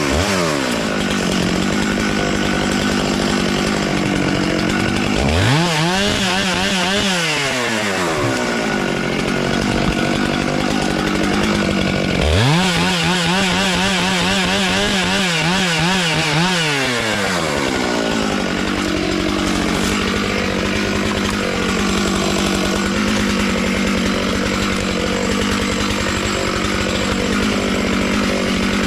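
Chainsaw running, revved up twice to full throttle for a few seconds each time and then let back down, over a steady engine drone.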